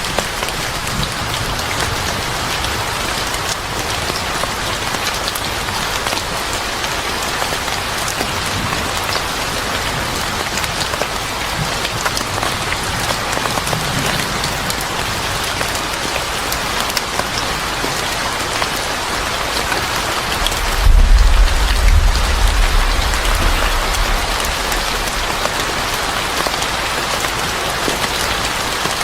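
Steady rain falling and pattering on a surface. A deep low rumble swells for a few seconds about three-quarters of the way through and is the loudest moment.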